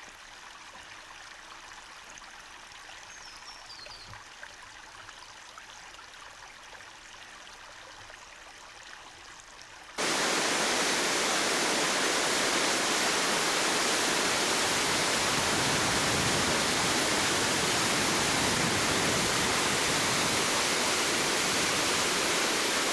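Faint creek water and a brief bird chirp for about ten seconds, then, after a cut, the loud, steady rush of a waterfall heard up close.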